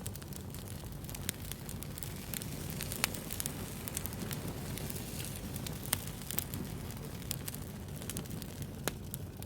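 Wood fire crackling: steady low rumble of flames with scattered sharp pops and snaps, the loudest about three and six seconds in.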